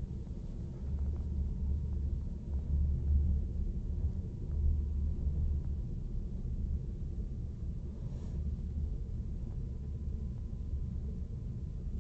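Passenger train running, heard from inside the carriage: a steady low rumble of the wheels and running gear.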